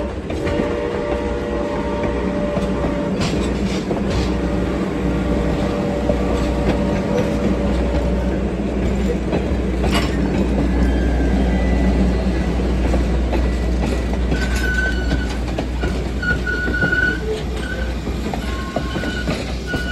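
Passenger coaches of a heritage train rolling past at low speed: a steady rumble with wheels clicking over the rail joints. A steady chord-like tone sounds through the first several seconds and then fades, and short high wheel squeals come and go in the second half.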